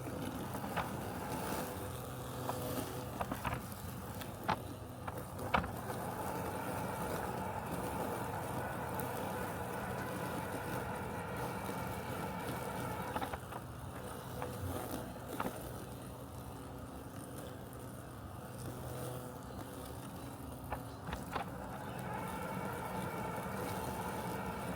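Robotic lawn mower running with a steady mechanical hum of several held tones, with a few short sharp clicks scattered through it.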